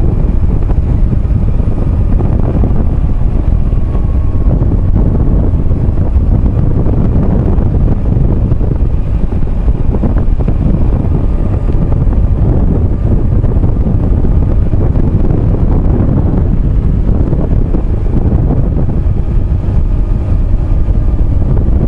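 Motorcycle riding along at a steady pace: the engine runs steadily under loud wind noise buffeting the microphone.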